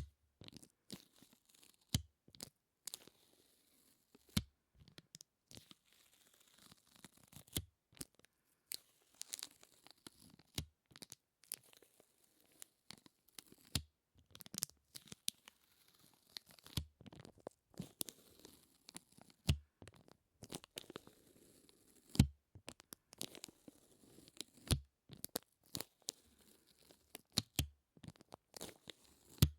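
Close-miked sticky peeling sounds: something tacky is pressed and pulled apart again and again, giving irregular crackles and sharp pops of varying loudness.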